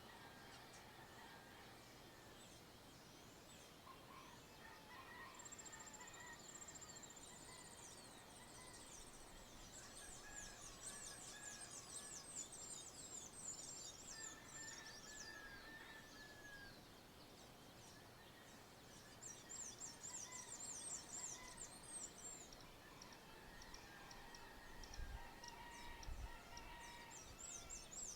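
Faint dawn chorus of several birds: bouts of rapid high chirping trills with softer, lower whistled notes in between, over a quiet rural background hiss.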